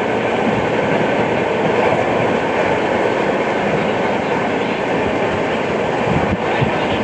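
Indian Railways express passenger train running at speed: a steady rumble and rattle of the coach wheels on the rails. The uploader attributes this track sound to a flat wheel.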